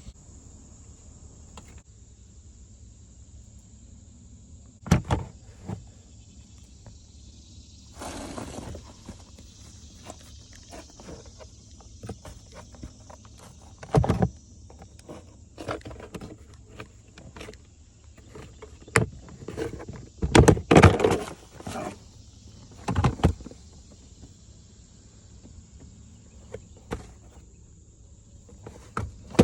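Scattered knocks, clicks and rustling of hands and tools being handled, with a few louder knocks about five seconds in, near the middle and in a cluster past two-thirds through.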